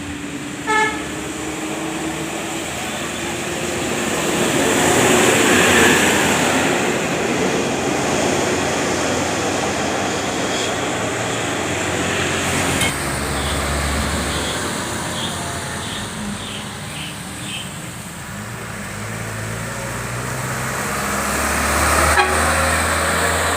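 Road traffic driving past close by, with a short horn toot about a second in. A vehicle passes loudest around the middle of the first half and another near the end.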